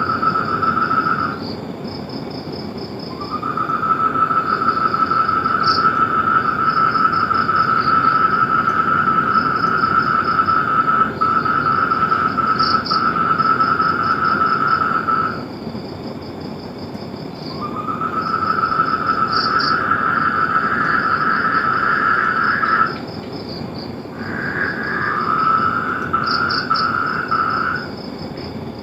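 Outdoor animal chorus. Long, even trills, one lasting about twelve seconds and others several seconds, come one after another, with shorter overlapping trills near the end. A continuous high-pitched pulsing chirp runs beneath them.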